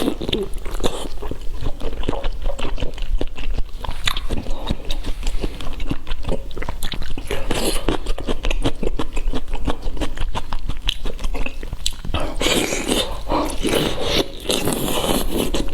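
Close-up biting and crunchy chewing of food: a dense, irregular run of crunches and wet mouth clicks, growing fuller for a few seconds near the end.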